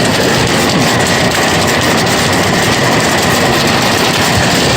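Hail pelting a car's roof and windows, heard from inside the car: a loud, dense, unbroken clatter of many small impacts.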